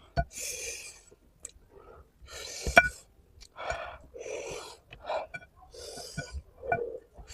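A person eating very spicy curry, breathing hard in short hissing gasps, in and out, between mouthfuls, with wet mouth clicks and chewing. The panting is the mouth burning from chili heat.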